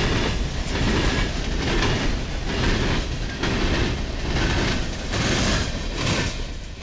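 Freight train of coal hopper cars rolling past, steel wheels clattering over the rail joints in a repeating rhythm. The sound drops away near the end as the last car goes by.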